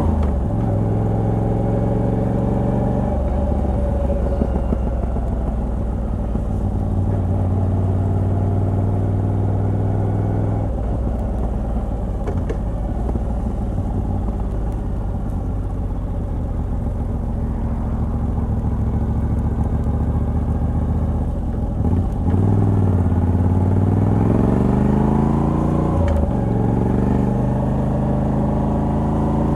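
Moto Guzzi V85TT's air-cooled 853 cc transverse V-twin running through the stock exhaust with a Mistral de-cat pipe, cruising at a fairly steady pitch. About three-quarters of the way in the revs drop, then rise twice in quick succession with a gear change between them as the bike accelerates.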